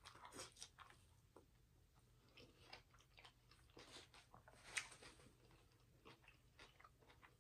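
Faint close-miked chewing of a mouthful of turnip greens and raw onion: soft, irregular wet mouth clicks and smacks, with one louder smack just under five seconds in.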